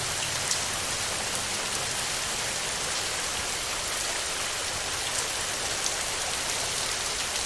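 Heavy rain falling steadily on a metal roof: a dense, even hiss with a few sharper drop hits standing out.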